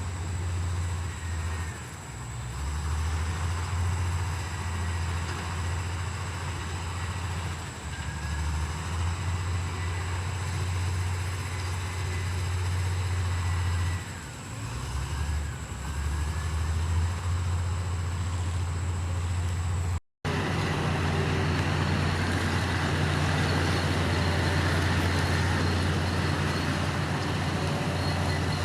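Heavy diesel earthmoving machine engine running steadily, easing off briefly about halfway through. It cuts out for an instant about two-thirds of the way in and then runs on evenly.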